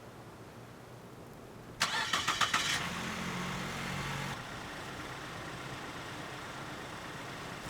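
Car engine cranked by the starter and catching after about a second of rapid clicking. It runs at a raised idle for a moment, then settles to a steady idle hum.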